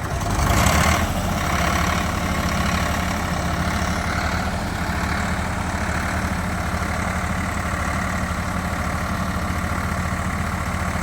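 Swaraj tractor's diesel engine idling steadily, with a brief louder burst about half a second to a second in.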